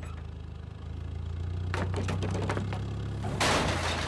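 Car engine idling with a steady low hum, joined a little under two seconds in by a run of clicks and rattles, then a burst of rushing noise near the end.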